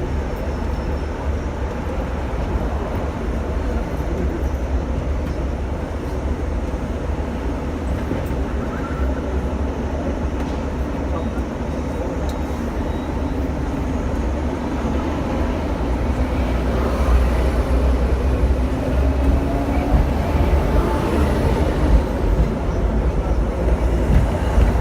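Hong Kong double-decker electric tram running, heard from on board: a steady low rumble of motors and steel wheels on the rails. It grows a little louder, with some clatter, in the last several seconds.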